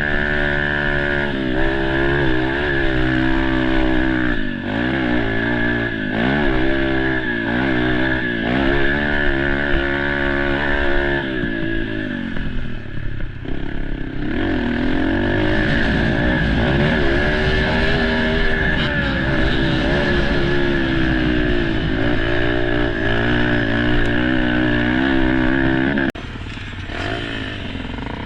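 Motocross dirt bike engine being ridden, its pitch rising and falling again and again as the throttle opens and closes and it shifts. The sound drops abruptly about 26 seconds in.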